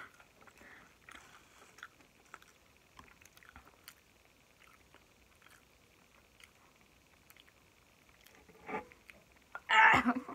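Close-miked chewing: faint mouth clicks and soft crunches from someone eating fast food. Near the end there are two short, louder mouth sounds.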